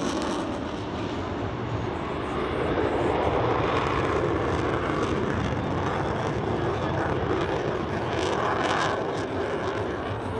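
Jet noise from an RAAF F/A-18F Super Hornet's twin engines at high power during a maximum-performance turn: a steady, loud rushing sound that swells slightly now and then.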